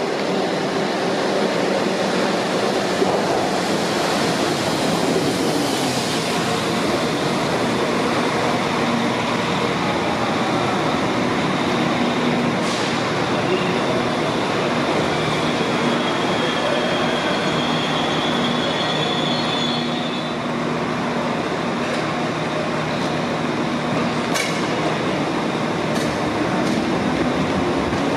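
Northern Class 195 diesel multiple unit running into a station platform and braking to a stand, its underfloor diesel engines running. A high squeal comes in about halfway through and stops about six seconds later as the train halts, followed by a few sharp clicks.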